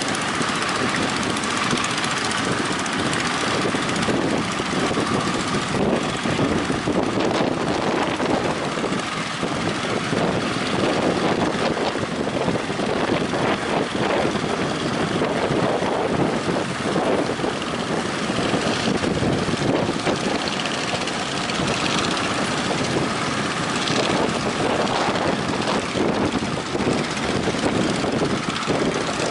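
Strong wind blowing on the microphone over breaking surf, a loud, steady rushing.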